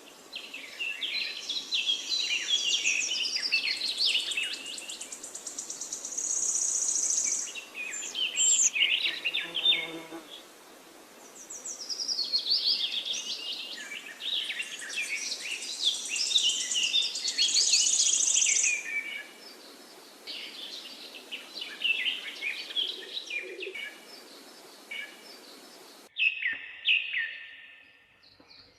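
Several songbirds chirping and trilling in overlapping bursts of a few seconds with short lulls between, over a steady outdoor background hiss. Near the end the background hiss cuts off suddenly and a short burst of chirps follows.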